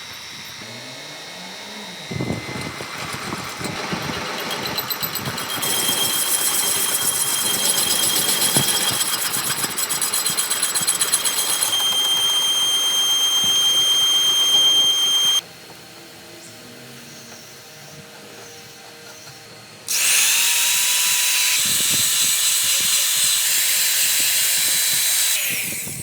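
Power tools running on a hydraulic boom cylinder repair, with steady high whines over a noisy din that change suddenly several times, dropping quieter for a few seconds past the middle.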